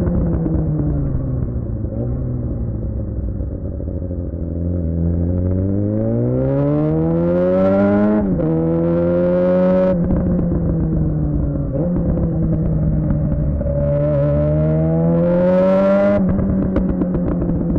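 Suzuki GSX-R600's inline-four engine through a Yoshimura R11 exhaust under way. The engine note falls off at first, then climbs twice under acceleration, each climb cut by a sharp drop in pitch at an upshift, about eight and sixteen seconds in.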